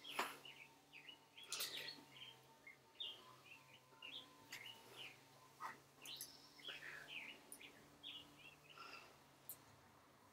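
Faint birdsong: short chirps and whistled calls scattered throughout.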